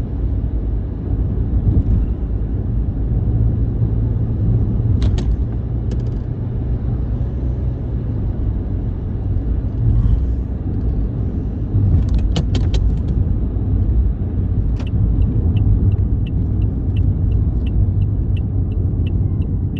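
Steady low road rumble of a moving vehicle, with a few sharp clicks. Near the end a regular ticking starts, about two ticks a second.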